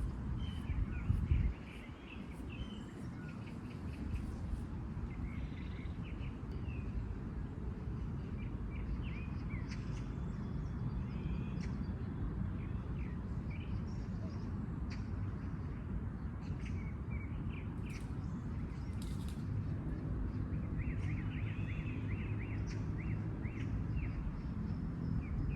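Small birds chirping in short, repeated calls over a steady low outdoor rumble, with a brief louder low buffet about a second in.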